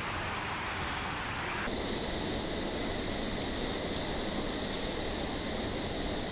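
Steady rushing outdoor noise with no distinct sounds in it. About two seconds in, the upper hiss drops away abruptly at a cut in the recording.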